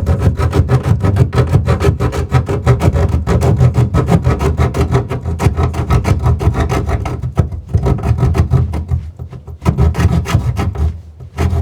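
Power saw cutting through a wooden subfloor, a loud fast chatter of about ten strokes a second over a low rumble, easing and stopping briefly near the end.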